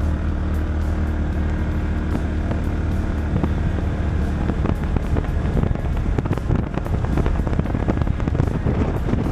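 Polaris Ranger 570 side-by-side's single-cylinder engine running under way, holding a steady drone for the first few seconds, then turning rougher and choppier with wind buffeting and jolts on the microphone.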